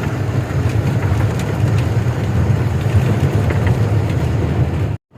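Ashok Leyland goods truck's diesel engine running steadily with road noise while driving, a loud low rumble that cuts off suddenly near the end.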